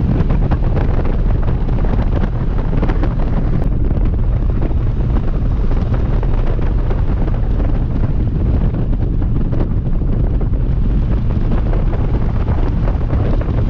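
Wind buffeting the microphone on a moving motorcycle, over the steady low drone of the engine.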